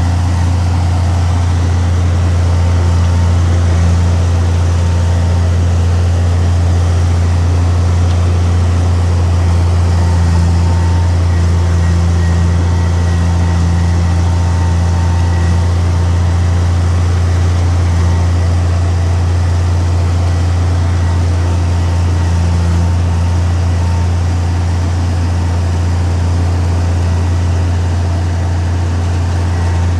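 Heavy diesel engine of a bulldozer running steadily, with a strong, unchanging low hum.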